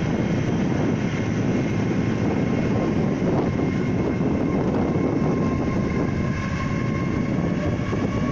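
Ten-carriage GWR Class 800 Intercity Express Train passing close by: a steady loud rumble of its wheels on the rails, with faint steady whines above it that grow clearer in the second half.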